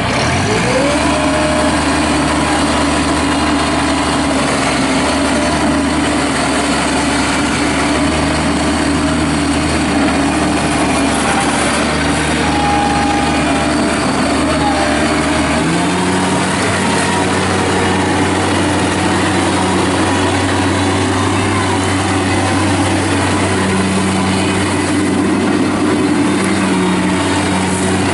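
Kubota diesel engine of a Bobcat MT52 mini track loader running just after start-up, its pitch climbing in the first second and then settling into a steady run. About 16 seconds in the engine note steps up to a higher, steady pitch.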